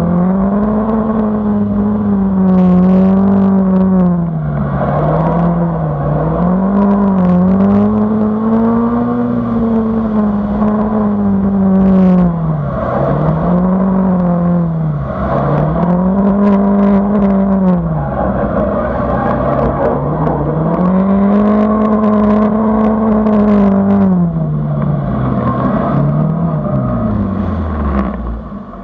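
Car engine driven hard through a tight cone course, the revs rising and falling over and over as the car accelerates and brakes between turns. Near the end the revs drop away steadily as the car slows.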